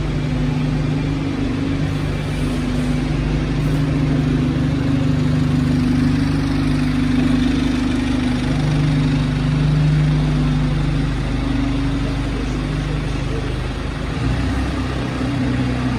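ADL Enviro 200 single-deck bus's diesel engine running, heard from inside the passenger cabin as a steady drone whose pitch drifts slightly up and down, with road noise over it.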